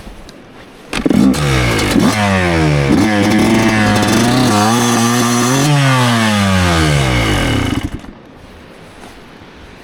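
Motorcycle engine that starts suddenly about a second in, climbs in pitch, holds a steady note, then falls in pitch and dies away after about seven seconds.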